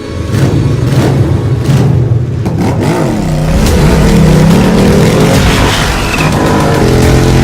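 Royal Enfield Interceptor motorcycle's parallel-twin engine revving, its pitch rising and falling several times about halfway through before settling into a steadier note.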